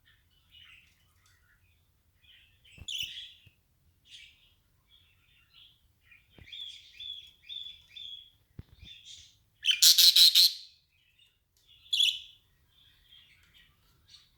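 Pet birds chirping in short, scattered calls, with a loud rapid trill about ten seconds in and another sharp call about two seconds later. A few soft taps come in between.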